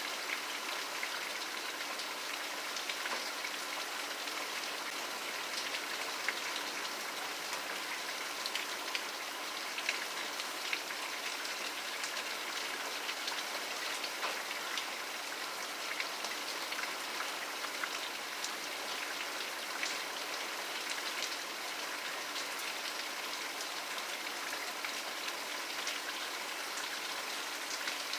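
Steady rain falling on a hard surface, with many separate drops ticking and pattering against an even hiss.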